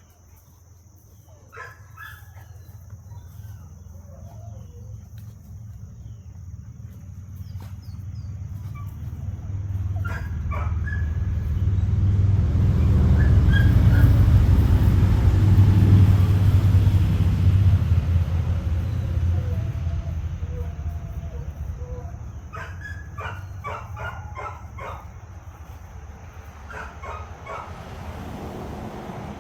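A low engine rumble passes by, swelling for about fifteen seconds and then slowly fading away. Dogs give short, sharp barks in clusters near the start, about ten seconds in, and again near the end.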